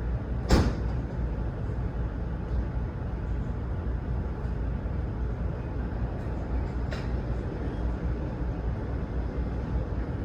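Steady low rumble of vehicle engines, with one sharp loud knock about half a second in and a fainter click near seven seconds.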